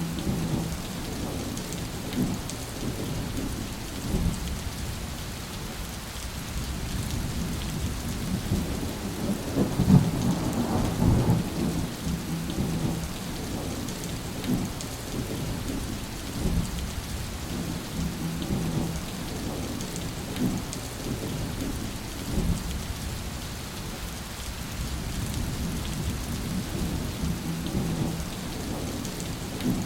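Rainstorm: steady rain falling, with low rolling thunder that swells into a louder peal about ten seconds in before rumbling on.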